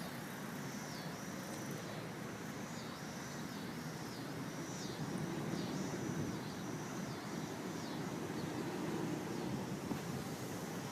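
A bird repeating a short, high, falling note about once a second, over a faint low rumble that swells slightly in the middle.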